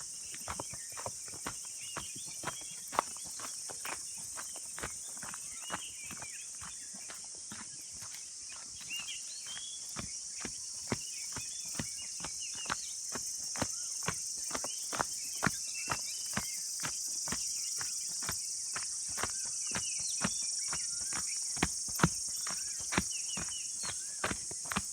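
A steady high-pitched insect chorus, with short chirping bird calls now and then, and a person's footsteps on a forest path as sharp irregular clicks.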